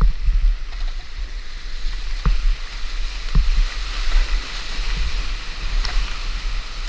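Rushing whitewater of a creek slide heard from a kayak, a steady loud rush with a low rumble underneath. A few sharp knocks come about two and three and a half seconds in.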